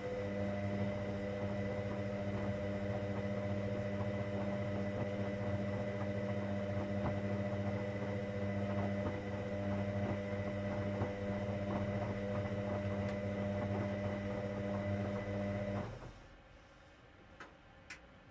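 Hoover Dynamic Next washing machine running with a steady electric hum and light crackling, which cuts off abruptly near the end, followed by two short clicks.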